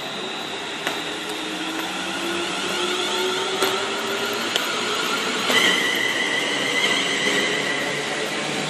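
Electric train's traction motors whining, the pitch slowly rising as it gathers speed, with higher whine tones joining about halfway through and a few sharp clicks from the wheels on the track.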